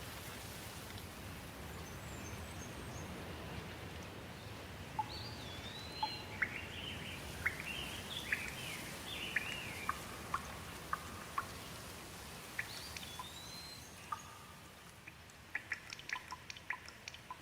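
Steady rain with birds calling over it: several rising-and-falling chirps and whistles, busiest in the middle. Near the end the rain hiss drops and a quick patter of sharp drips takes over.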